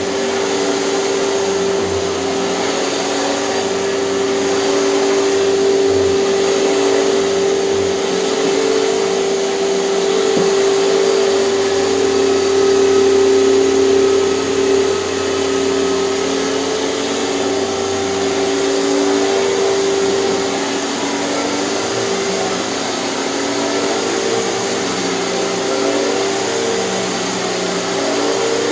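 Hoover canister vacuum cleaner running steadily, with a constant motor whine and airflow hiss.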